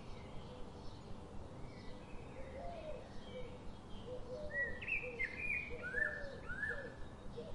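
Birds chirping in short, repeated calls, some high and some lower-pitched, over a steady background hiss. A louder run of high chirps comes in the second half.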